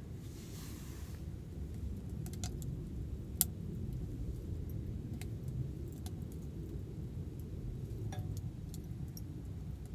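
Steady low rumble with scattered light clicks and clinks, the sharpest about three and a half seconds in.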